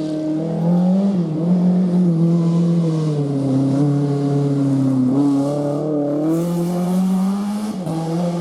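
A rally car's engine at high revs on a special stage, its pitch climbing and falling several times, with sharp drops about a second in, about five seconds in and near the end as the driver shifts or lifts off.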